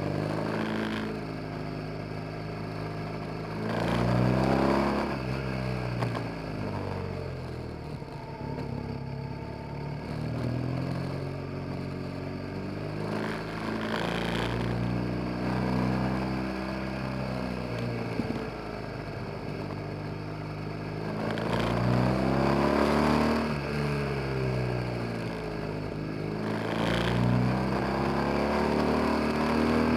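BMW R 1200 GS boxer-twin engine under way, heard from a camera mounted on the bike. Its pitch climbs and drops several times as the rider accelerates and changes gear.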